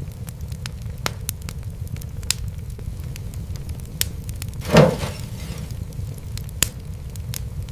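Wood fire crackling: scattered sharp pops and snaps over a steady low rumble of the flames, with one louder pop and a brief hiss about two-thirds of the way in.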